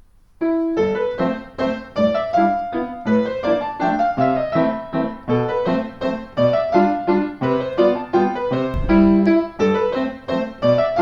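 Background piano music starting about half a second in, a steady run of struck notes in a flowing melody.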